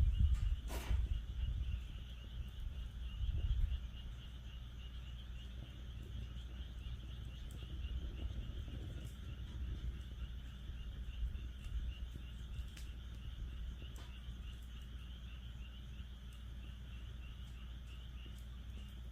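A chorus of frogs calling in a steady run of quick pulsing notes, with a few sharp pops from a crackling wood fire, the loudest about a second in. A low rumble is strongest in the first few seconds.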